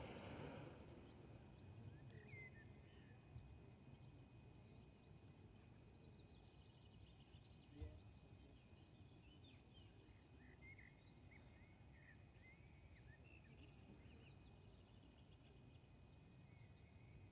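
Near silence: faint outdoor ambience of insects, a thin steady high trill with scattered small chirps over a soft low background noise.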